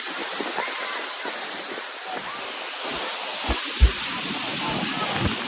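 Waterfall running, a steady hiss of falling water and spray close by. Two short low thumps come a little past halfway.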